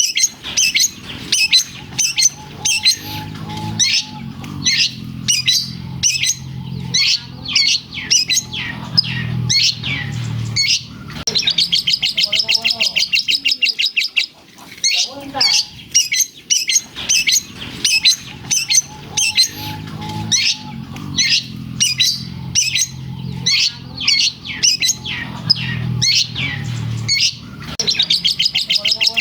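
Long-tailed shrike (cendet) singing loudly and without pause: a fast string of sharp, squeaky chips that mimic a lovebird, broken by a rapid buzzing trill about twelve seconds in and again near the end. The same song sequence repeats about halfway through.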